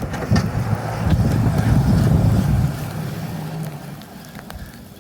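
A motor vehicle passing on the street, its low engine rumble loudest about two seconds in, then fading away.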